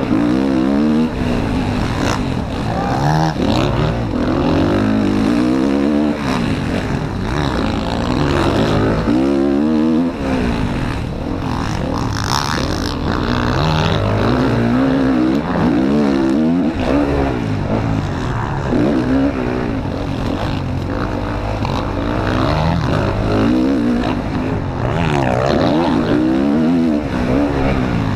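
Motocross bike engine ridden hard, revving up and dropping back over and over as the rider accelerates, shifts and brakes through a race lap.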